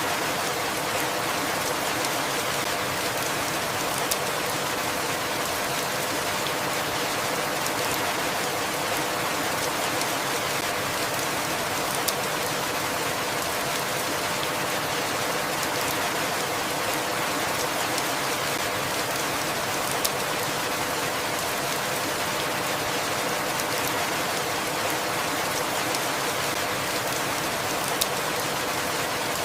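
Steady, even rainfall, with a louder single drip-tap every several seconds.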